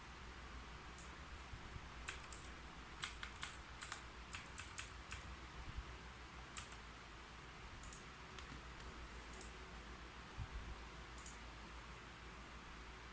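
Typing on a keyboard: a quick run of keystrokes a couple of seconds in, then scattered single key presses.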